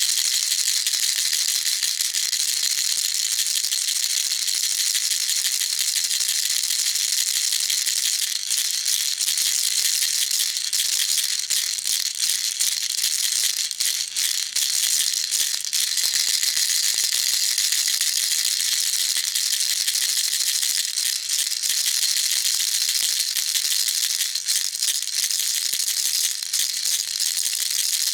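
Baby rattle shaken continuously: a dense, steady, high rattling with no pauses.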